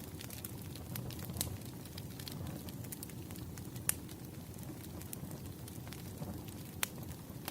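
Wood fire crackling: a steady low rush of flames with scattered sharp pops and snaps, two louder ones about four and seven seconds in.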